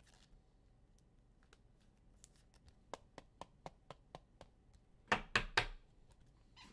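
Trading cards and pack wrappers being handled on a table: a run of light clicks and taps, then a louder cluster of three or four sharp snaps about five seconds in.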